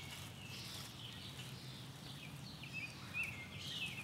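Wild birds singing outdoors: short chirps and curling whistled notes repeated every second or so over a faint low background hum.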